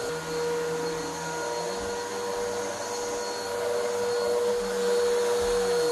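Vacuum cleaner running steadily over carpet, its motor giving a constant whine.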